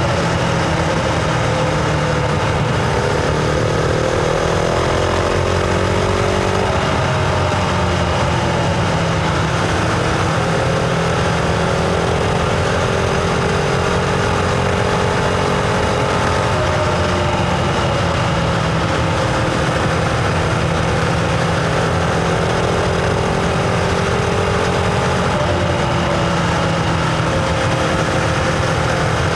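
Husqvarna Vitpilen 701's single-cylinder engine running under way on a ride, its note holding mostly steady and shifting in pitch a few times, with wind and road noise underneath.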